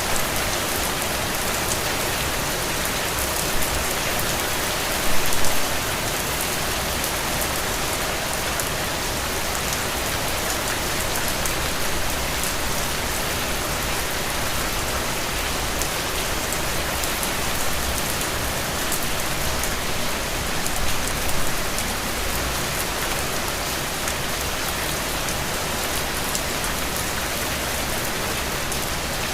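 Steady rain falling and pattering on hard surfaces, with fine individual drop ticks through it. Twice it briefly grows louder.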